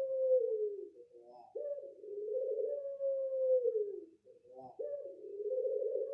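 A dove cooing: a short broken note followed by a long drawn-out coo that slowly sinks in pitch and drops away at its end, given twice.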